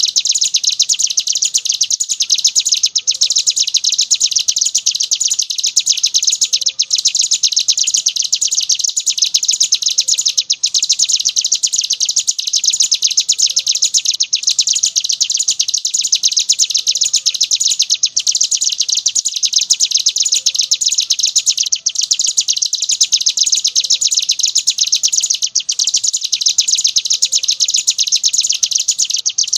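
Ciblek gunung (a prinia) singing in the 'ngebren' style: a rapid, unbroken, high-pitched chattering song, with a very short break about every four seconds.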